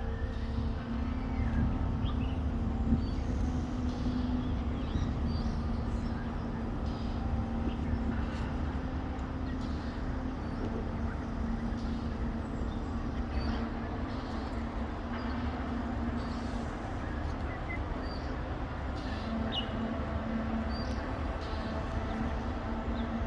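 Steady low city traffic rumble with a constant hum, and scattered short, faint bird chirps above it.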